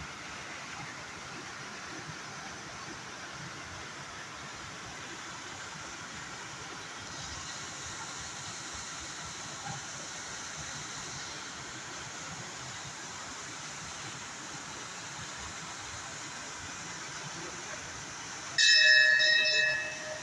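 Steady rush of a monsoon waterfall. Near the end, a loud bell-like ring with several clear tones starts suddenly and fades over about a second and a half.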